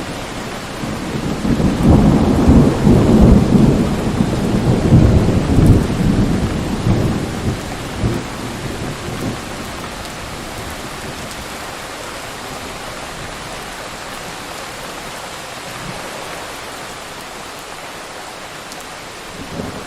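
Thunderstorm sound effect: a long rolling rumble of thunder begins about a second in, is loudest over the next few seconds and dies away by about nine seconds, over steady rain. Another rumble of thunder starts at the very end.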